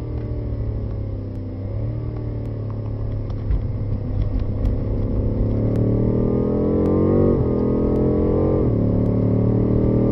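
BMW M5's engine heard from inside the cabin at track speed. The note dips as the car slows, with a short blip about two seconds in. From about four seconds it climbs steadily under hard acceleration, dropping twice on quick upshifts near the end.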